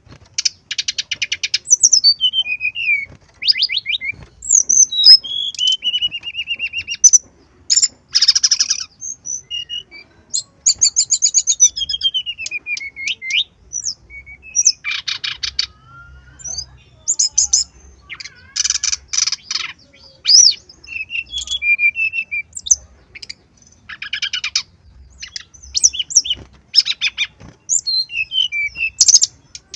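Brown-chested jungle flycatcher song: high, varied phrases of rapid trills, chattering runs and falling whistles, broken by short pauses.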